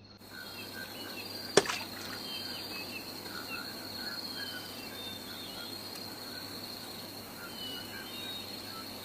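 Outdoor nature ambience: a steady high-pitched insect drone with scattered short bird chirps, and one sharp click about a second and a half in.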